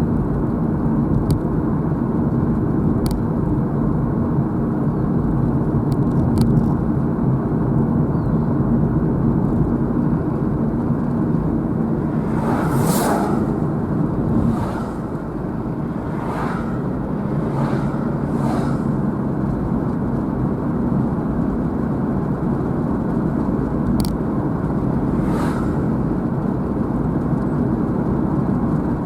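Steady road and engine noise of a car being driven, heard from inside the vehicle. About five brief whooshes pass in quick succession around the middle and one more near the end, like other vehicles going by.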